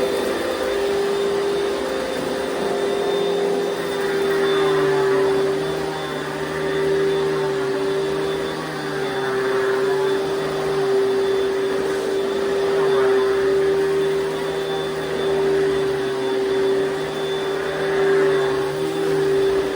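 Panasonic Jet-Flo MC-6215 upright vacuum cleaner running with a steady motor whine and a rush of air. A lower hum under it dips and recovers every few seconds, and the overall loudness swells and eases with it.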